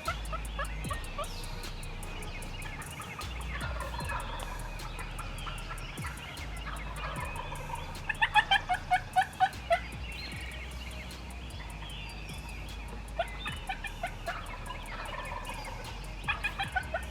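Turkey yelping: runs of quick pitched notes, about five a second, one about eight seconds in and another near the end, with fainter calls in between.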